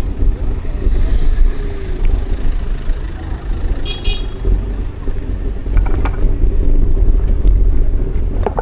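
City street traffic noise: a steady, heavy low rumble of passing vehicles, with a short high-pitched sound about four seconds in and a few light clicks near the end.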